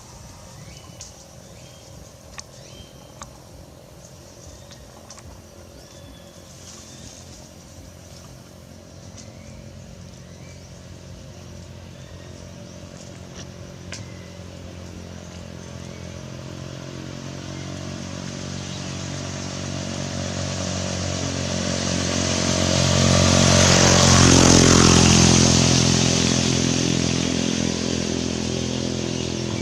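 A motor vehicle's engine approaching and passing: it grows slowly louder, is loudest about twenty-four seconds in, then fades away. A few faint clicks come in the first few seconds.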